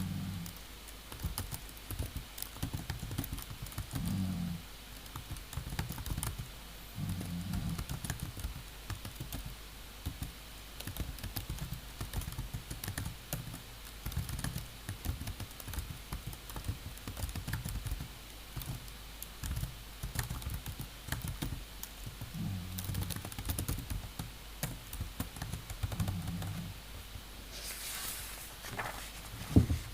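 Computer keyboard typing: a steady, irregular run of keystroke clicks with soft low thuds, and a brief louder rustling noise near the end.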